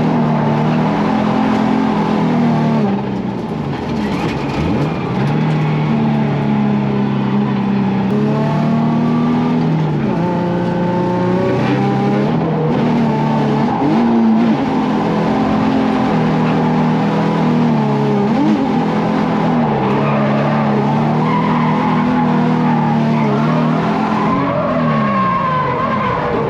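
Nissan 350Z's V6 engine held at high revs through long stretches, dropping and swinging back up again and again as the car is drifted, with tires squealing.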